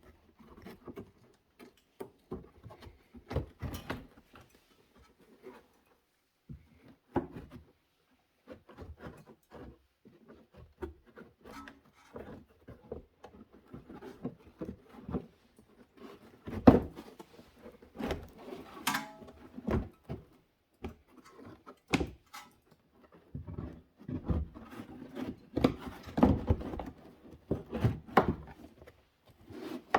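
Hand tools and parts being handled in repair work: irregular clicks, knocks and rattles, with a brief squeak about 19 seconds in and a busier run of knocks near the end.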